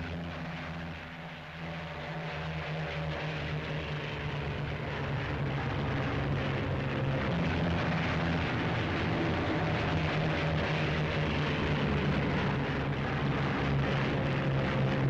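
Republic P-47 Thunderbolt fighters' Pratt & Whitney R-2800 radial engines at takeoff power, a steady propeller-plane drone that swells over the first several seconds and then holds.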